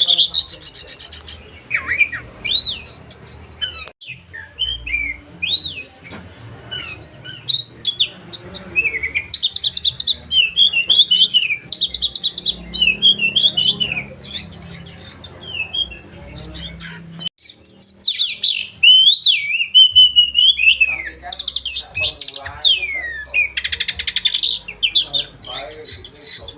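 Oriental magpie-robin singing a loud, continuous, varied song. It mixes sharp sliding whistles with rapid rattling runs of repeated notes.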